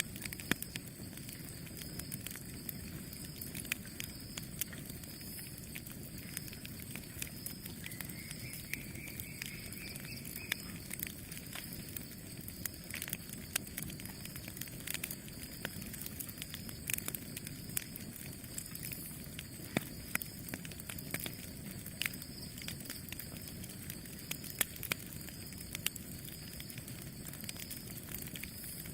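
Wood fire crackling and popping: irregular sharp snaps over a steady low rush of flames. A faint whistle rises in pitch about eight seconds in.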